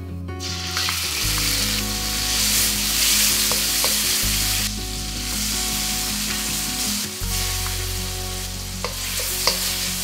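Pork belly, squid and shrimp frying in sesame oil in a wok: a loud sizzle that starts about half a second in and holds. Near the end a wooden spatula clicks against the wok as the food is stirred. Soft background music with low notes plays underneath.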